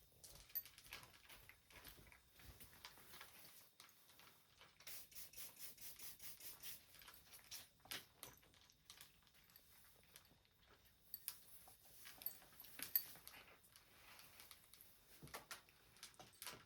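Near silence in a quiet room, broken by scattered faint clicks and taps. About five seconds in comes a run of quick, soft ticks lasting a couple of seconds.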